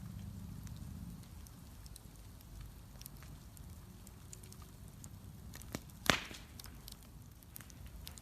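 Wood bonfire burning, with a steady low rumble and scattered crackles, and one loud pop about six seconds in.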